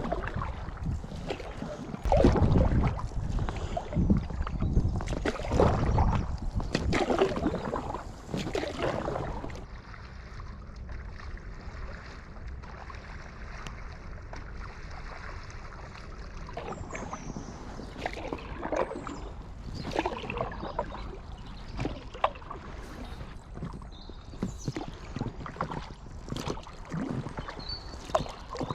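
Canoe paddle strokes in water, splashing about every second or two, with a quieter stretch in the middle before the strokes resume.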